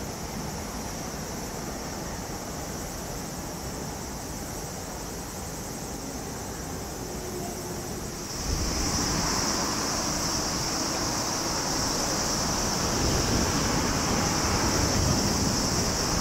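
Freight train of tank wagons rolling past at a distance, a steady low rumble. About eight seconds in it gives way to louder, steady station ambience with a high hiss.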